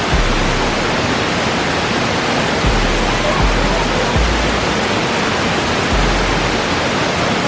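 Waterfall's steady rushing roar of falling water, with low rumbles now and then, likely from wind on the microphone.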